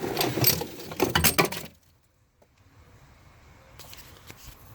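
Metallic clattering and clinking from a removed power steering pump and its pulley being handled, lasting under two seconds.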